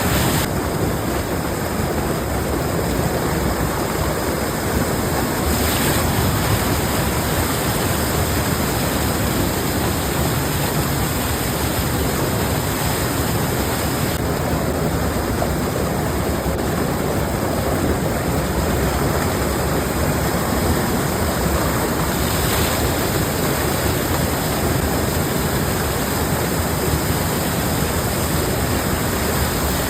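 Waterfall: water pouring down in a steady, even rush with no breaks.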